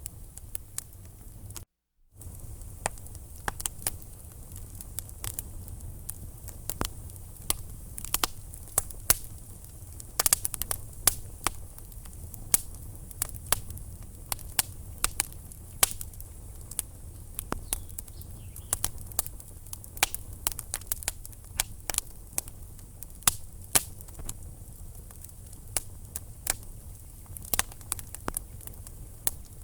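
Wood fire in a fireplace crackling, with frequent sharp pops and snaps of burning logs over a steady low rumble of flames. The sound briefly cuts out about two seconds in.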